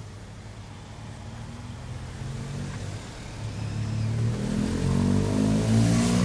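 Car engine accelerating, heard from inside the cabin: a low steady hum that rises in pitch and grows louder over the second half.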